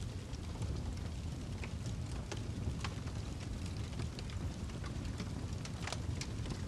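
Wood fire burning in a fireplace: a steady low rumble of flames with irregular sharp crackles and pops from the burning log, a few louder pops among them.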